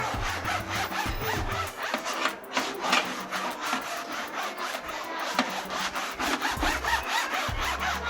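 Rapid, irregular scraping strokes over background music with a low bass line.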